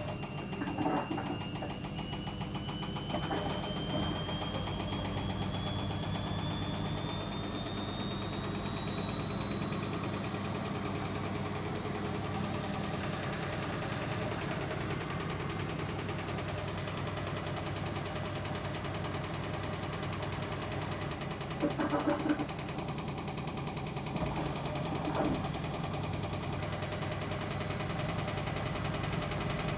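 Logik L814WM16 washing machine running with a grinding noise, its motor whine rising in pitch over the first ten seconds or so as the drum speeds up, holding steady, then rising again near the end. A few short knocks come through about a second in, after three seconds and twice more past twenty seconds.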